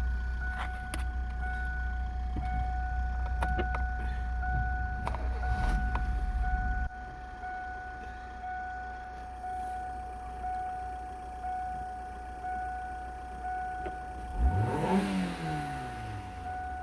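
Kia Cerato's 1.6 MPI G4ED four-cylinder petrol engine running on test, with a heavy low rumble that drops off abruptly about seven seconds in. Near the end, one quick rev rises and falls back to idle.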